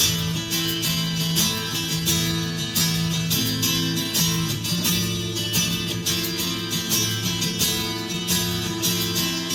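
Guitar intro of a song: steadily strummed guitar chords, no singing.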